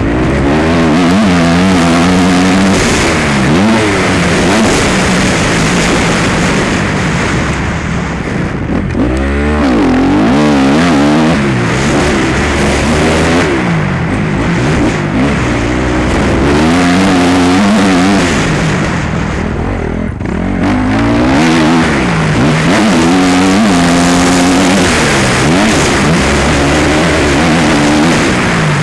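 Motocross bike engine revving hard and steadily, its pitch climbing and dropping again and again through the gears and corners, with the throttle briefly shut off about nine seconds in and again about twenty seconds in.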